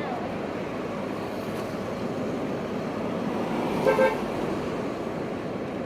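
Steady street traffic noise, with a car horn giving two short toots about four seconds in.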